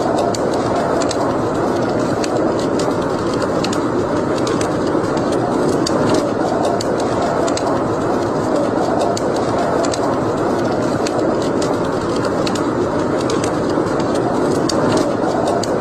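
Wood fire burning in a fireplace: a steady rushing sound with frequent small, sharp crackles and pops from the burning logs.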